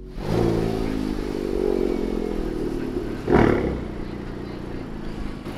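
Honda Civic Type R's turbocharged four-cylinder engine running steadily, with a short thump about three seconds in.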